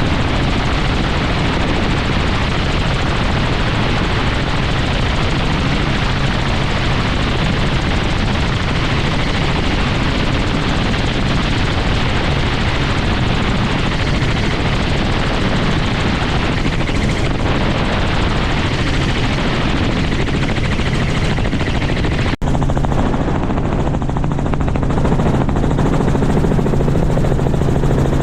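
Helicopter running, its rotor and engine making a loud, steady noise. About three quarters of the way through there is an abrupt cut, after which a steady low hum is stronger and the hiss above it lighter.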